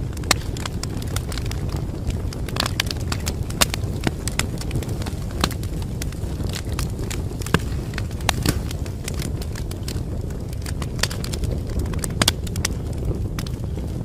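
Wood fire crackling: a steady low rumble of burning with frequent, irregular sharp pops and snaps.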